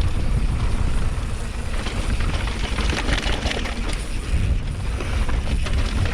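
Mountain bike riding fast downhill on a dirt trail: tyres rolling over loose dirt and rocks and the bike rattling, with heavy wind rumble on the camera microphone.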